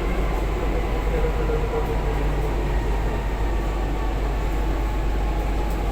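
Metro train carriage running noise heard from inside: a steady rumble and hum with no clear change in level, and a faint whine in the first two seconds.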